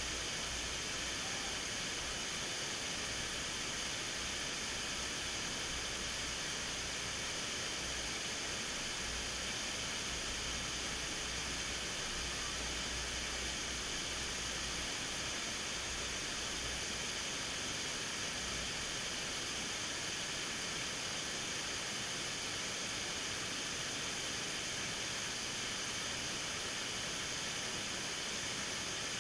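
Steady rushing roar of a waterfall, with a low rumble that comes and goes and drops away about two-thirds of the way through.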